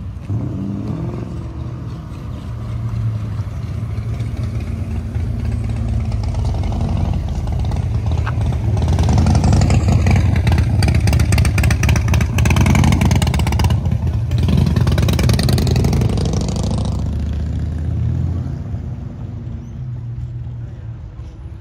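Car engine running hard and revving, building up over several seconds, loudest for about eight seconds in the middle, then dying away.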